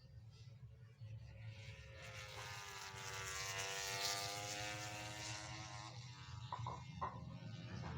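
A MotoGP race bike passing on track: its engine note swells for a few seconds, loudest about halfway through, the pitch falling as it goes by. A steady low hum lies underneath.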